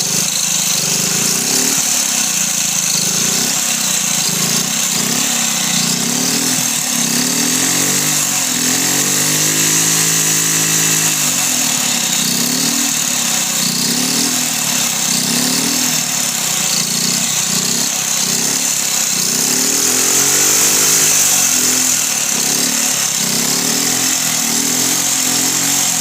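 Ducati Cucciolo T2's small four-stroke single-cylinder engine running at full throttle, its pitch rising and falling every second or two. About ten seconds in it makes one longer, smoother rise and fall.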